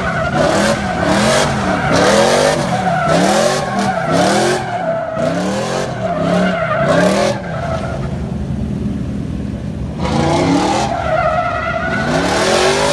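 Cammed 5.3-litre V8 in a Chevy Silverado revving hard, its pitch rising and falling about twice a second as it bangs off the rev limiter, with tyres squealing. About two-thirds of the way through it drops back for a couple of seconds, then revs up again.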